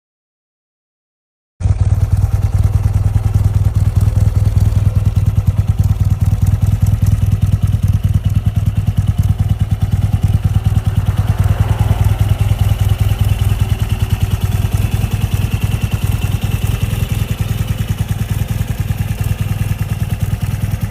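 Air-cooled BMW flat-twin boxer motorcycle engine running steadily at a low, even beat, starting after about a second and a half of silence.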